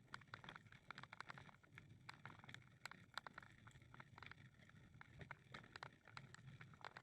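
Faint footsteps on a path: an irregular run of soft clicks and taps.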